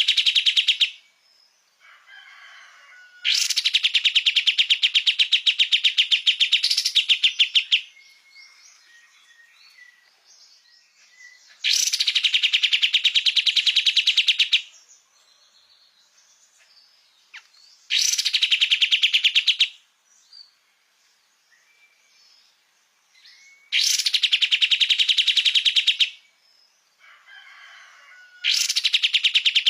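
White-shouldered triller (kapas tembak) singing: loud, very fast trills, each two to four seconds long, repeated about every five to six seconds, with soft short calls in the pauses between.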